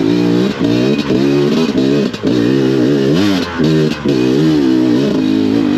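Beta enduro motorcycle engine on and off the throttle, its pitch rising and falling with each blip and dropping away in short breaks between pulls.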